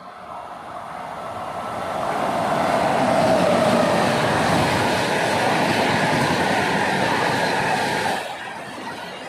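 Indian express train running past at speed: the rush of wheels on rail builds over the first few seconds, stays loud, then drops off abruptly near the end.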